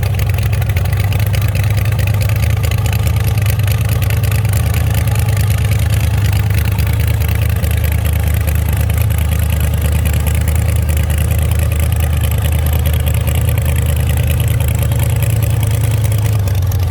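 A car engine running steadily with a constant low drone under an even hiss.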